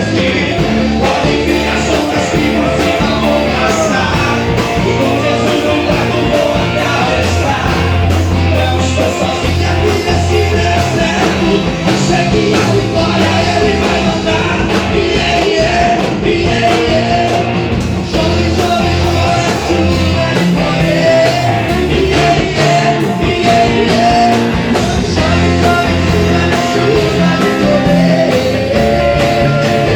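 Live gospel band music: an upbeat song carried by bass and a steady drum beat, with guitar, in a passage without clear sung words.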